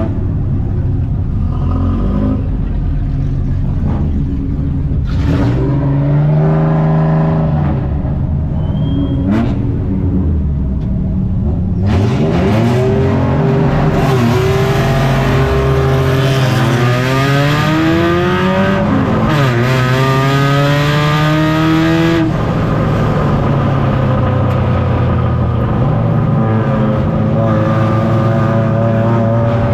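Spec Ranger race trucks' engines racing, the pitch climbing under throttle and dropping off again and again as the drivers shift and lift. From about twelve seconds in, several engines run together and the sound grows denser, with a sharp drop in pitch twice near the middle.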